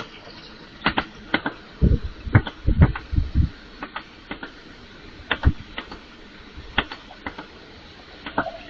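A run of irregular sharp clicks and knocks, with a few heavier low thuds about two to three and a half seconds in.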